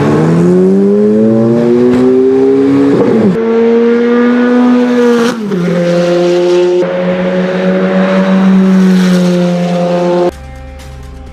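High-performance car engine accelerating hard, its pitch climbing and dropping sharply at two gear upshifts, then held high. The engine sound cuts off abruptly near the end and music takes over.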